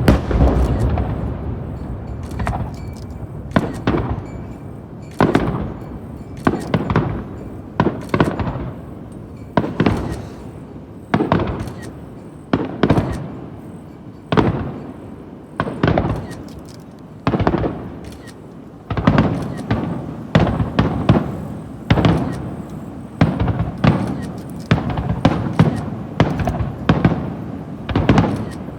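Starmine barrage of aerial firework shells bursting: a long string of booms, each trailing off in echo. They come about once a second at first and faster and denser from about two-thirds of the way in.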